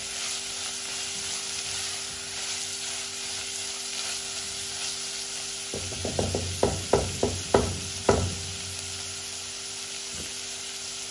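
Minced meat, onion, garlic and cherry tomatoes sizzling as they fry in a nonstick pot. From about six to eight seconds in, a silicone spatula stirs them, knocking and scraping against the pot about three times a second.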